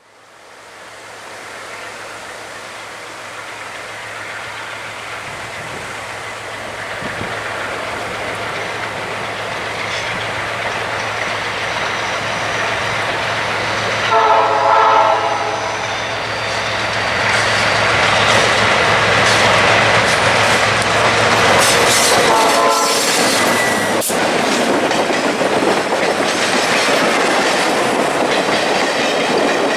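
A diesel-hauled passenger train approaching and passing, growing steadily louder. Its horn sounds twice: a blast of about a second and a half near the middle, and a shorter one some eight seconds later. The wheels then clatter over the rail joints.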